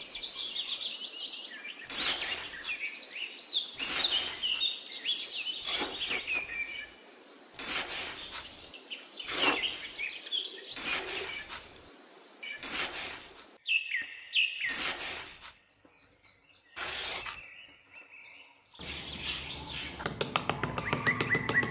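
Birds chirping and twittering, broken every second or two by short rushes of noise. Music with a steady beat comes in near the end.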